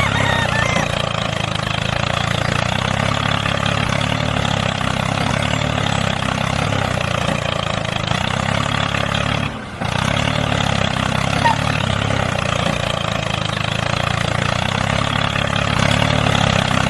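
Tractor engine running steadily while it pulls a plough, with a brief drop-out about ten seconds in.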